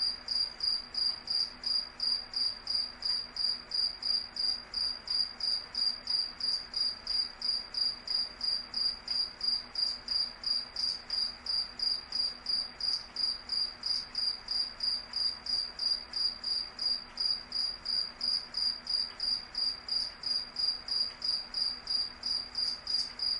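Cricket chirping steadily: a single high-pitched chirp repeated at an even pace of about two to three chirps a second.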